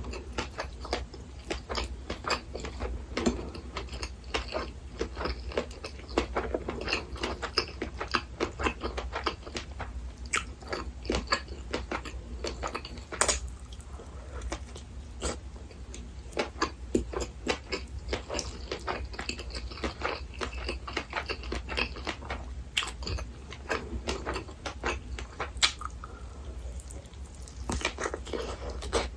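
Close-miked chewing and biting of food, a dense run of small moist clicks and crunchy mouth sounds, with a steady low hum underneath.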